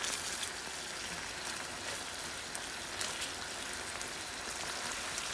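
Boneless chicken pieces sizzling in oil and sauce in a frying pan: a steady crackling hiss with scattered small clicks as the pieces are turned over with a fork.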